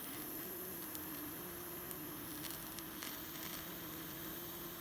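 Small jet-flame lighter burning: a steady hiss with a faint even hum, heating a seized engine's cylinder studs.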